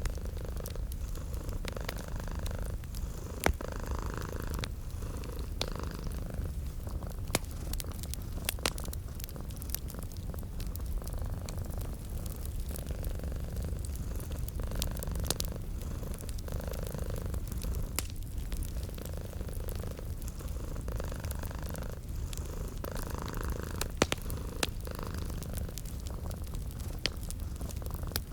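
Domestic cat purring steadily in a low rumble, with scattered sharp pops and crackles from a fireplace.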